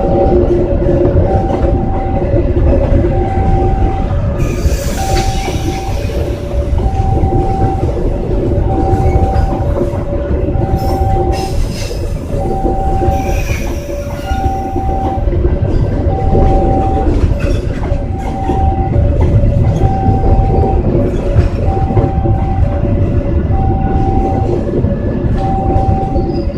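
Mataram Premium passenger train rolling past with a loud rumble and wheel clatter, with brief high wheel squeals about 5 and 13 seconds in. A warning signal beeps about once a second over it.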